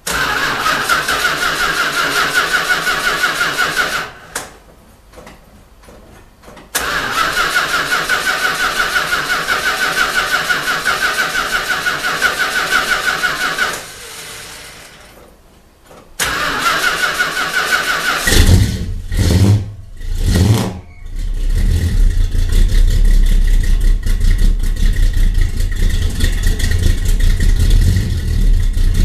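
Cold start of a 1970 Dodge Charger's 440 V8 with a Voodoo cam and Flowmaster mufflers. The starter cranks it in three spells with pauses between them, and the engine catches about two-thirds of the way in. It runs unevenly for a couple of seconds, dipping twice, then settles into a steady idle.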